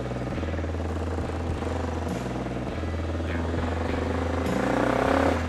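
A motorcycle engine running steadily, its pitch climbing from about three and a half seconds in and dropping back near the end.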